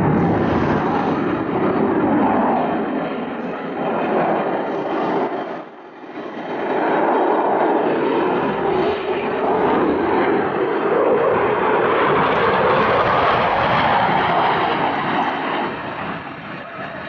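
Jet noise from an RAF Eurofighter Typhoon's two EJ200 turbofan engines as it flies its display and accelerates low for a high-speed pass. The sound is loud and continuous, dips sharply about six seconds in, swells again and eases off near the end.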